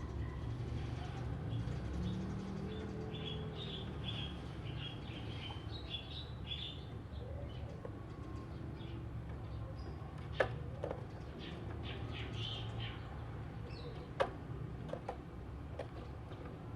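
Oriental magpie-robin (kacer) singing a run of short, quick chirping notes. Two sharp clicks come about ten and fourteen seconds in, over a steady low background rumble.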